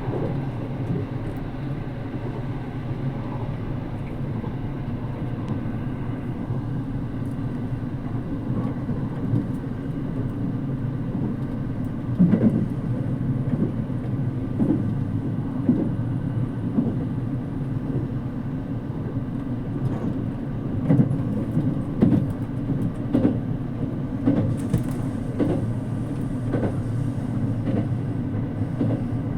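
JR Kyushu 787 series electric train running at speed, heard from inside the carriage: a steady low rumble. From about halfway through, repeated sharp knocks come from the wheels and track.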